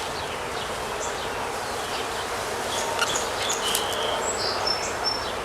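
Honey bees buzzing in a steady hum around an open hive box, disturbed by the inspection and the smoke.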